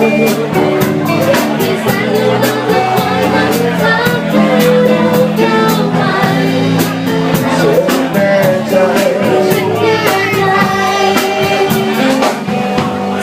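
A band playing a pop-rock song, with singing over guitar and a steady drum beat.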